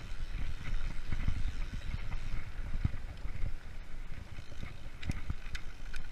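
Freeride mountain bike rolling over a forest trail: tyres rumbling on the ground, with frequent knocks and a few sharp clicks from the bike rattling over the bumps.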